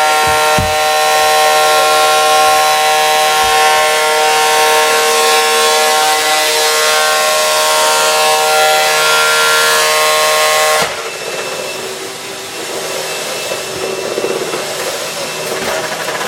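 Vacuum cleaner running with a steady high motor whine. About eleven seconds in it drops in level and turns to a rougher rushing noise.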